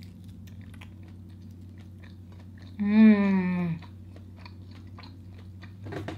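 Close-miked chewing of a grilled sausage: small wet mouth clicks and smacks throughout. About three seconds in comes a hummed "mmm" of enjoyment, about a second long and falling in pitch, the loudest sound.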